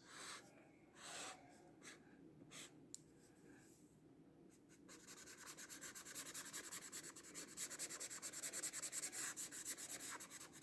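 Bullet-nib acrylic paint marker scratching on mixed media paper: a few scattered strokes, then from about halfway a quick, regular run of back-and-forth strokes, as when colouring in an area.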